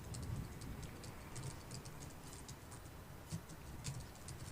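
Typing on a computer keyboard: soft, irregular key clicks, several a second, over a faint steady hiss of background rain ambience.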